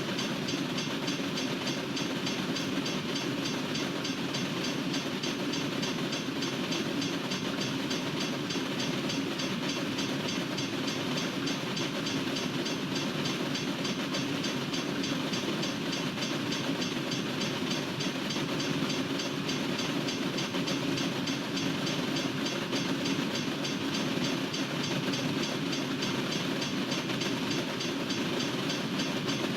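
Freight train cars rolling steadily past at a railroad crossing, a continuous rail rumble that holds even throughout.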